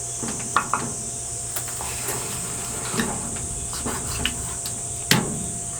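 Steady high hiss over a low electrical hum, broken by a few light knocks and clicks of things being handled, with one sharper knock about five seconds in.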